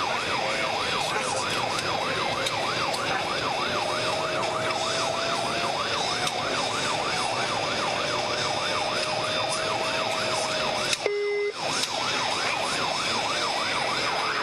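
Police car siren on a fast yelp, its pitch sweeping rapidly up and down about three to four times a second, over steady road and engine noise. It breaks off for a moment about three-quarters of the way through, then resumes.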